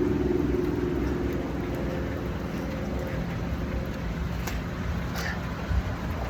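Steady low outdoor rumble, like nearby traffic, with a humming tone that fades away over the first two seconds.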